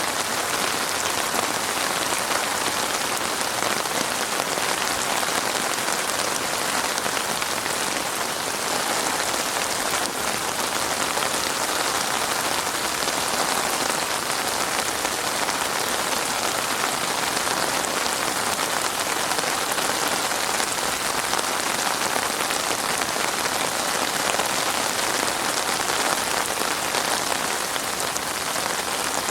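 Heavy rain falling steadily in a dense, even patter of raindrops on a surface.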